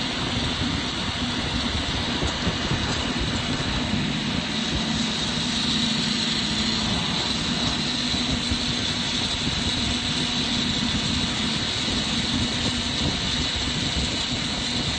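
Steady, loud rushing roar of a glassblowing torch flame and a strong shop ventilation fan, even and unbroken, with a low hum and a hiss running through it.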